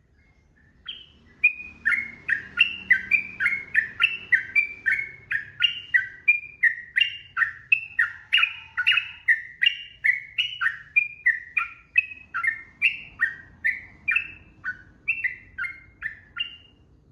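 Sooty-headed bulbul (trucukan) singing a long unbroken run of short slurred notes, about two a second, alternating higher and lower. The song starts about a second in and stops shortly before the end.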